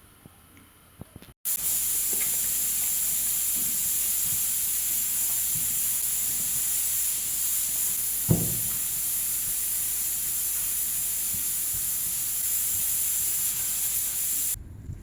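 Steady hissing noise that cuts in abruptly about a second and a half in and stops abruptly just before the end, with a single low thump about eight seconds in.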